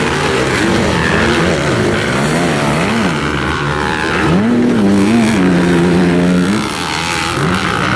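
Several motocross dirt bikes racing, their engine pitch rising and falling with throttle and gear changes. About halfway through, one bike revs up hard and holds it for a couple of seconds before backing off.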